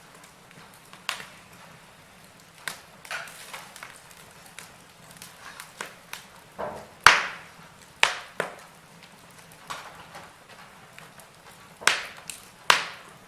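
Logs burning in a fireplace, crackling: irregular sharp pops over a faint hiss, the loudest about seven seconds in and two more close together near the end.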